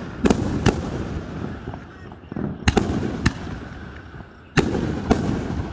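Aerial fireworks bursting: three pairs of sharp bangs, each pair about half a second apart, with a low rumble of echoes between them.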